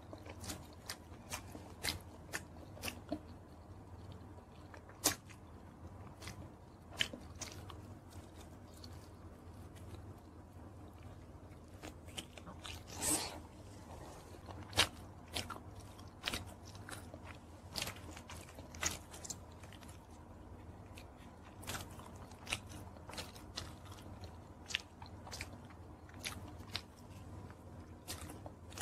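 Close-miked chewing and biting of chicken wings: irregular sharp crunches and mouth clicks over a steady low hum.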